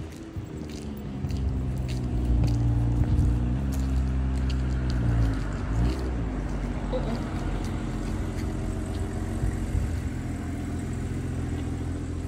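A motor vehicle's engine running steadily, its pitch dipping and rising once about halfway through.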